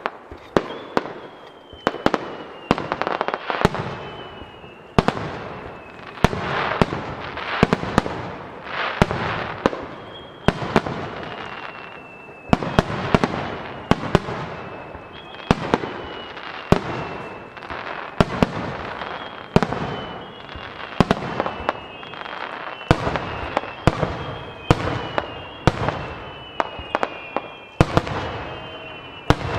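Starmine fireworks barrage: a quick run of shell bursts, about one or two sharp booms a second, over a steady crackle. High whistles glide down in pitch through much of it.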